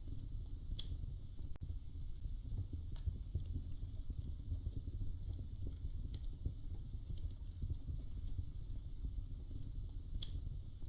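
Wood fire burning in a fireplace: a steady low rumble of flames with scattered sharp crackles and pops every couple of seconds.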